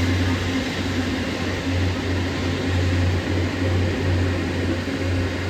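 Locomotive-hauled train passing a station platform: a steady rail rumble with a low, pulsing hum.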